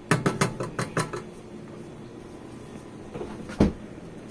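Kitchen clatter: a quick run of light knocks and clicks in the first second or so, then a single heavier thump about three and a half seconds in, over a faint steady low hum.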